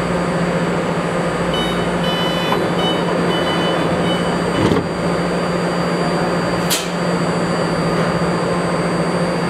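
BART Fleet of the Future train standing at the platform with a steady hum. About a second and a half in, a run of repeated high beeps sounds for a little over two seconds as the doors close, followed by a single knock just under five seconds in and a brief hiss near seven seconds.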